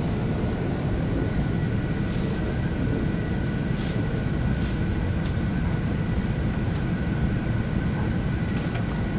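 Inside a Tohoku Shinkansen car pulling slowly out of the station: a steady low rumble from the train's running gear, with two thin, steady high tones over it and a few short hisses.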